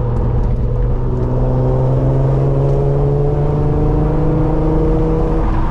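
Car engine pulling hard under acceleration, its note rising steadily in pitch through one gear.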